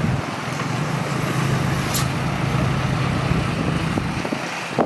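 Heavy truck engine running steadily, with a brief high hiss about two seconds in.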